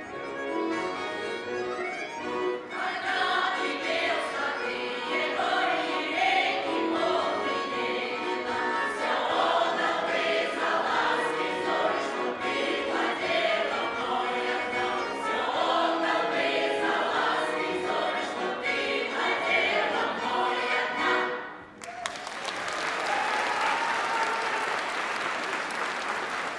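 Group singing with instrumental accompaniment. It stops abruptly about 22 seconds in and gives way to audience applause.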